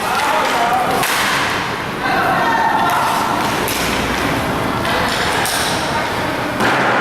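Inline roller hockey play: several sharp knocks and thuds of sticks, puck and players against the rink, over shouting voices.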